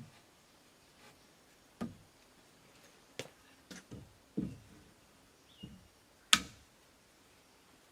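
Irregular knocks and clicks, about ten short strikes with a dull thud under several of them and one sharp, loud knock about six seconds in.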